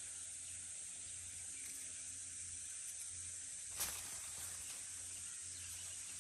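Steady high-pitched hiss of insects in the grass, with one short click or rustle about four seconds in.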